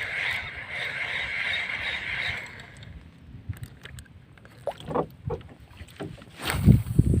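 Water and handling sounds in a small wooden paddle boat: a steady high hum for the first couple of seconds, then scattered knocks. Near the end there is a loud low rumble, like wind hitting the microphone.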